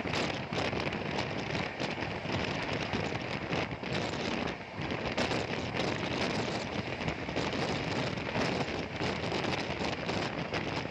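Running noise of a moving passenger train heard through an open window: a steady rush of wind and wheels on rail, full of fine crackle, with a brief lull about four and a half seconds in.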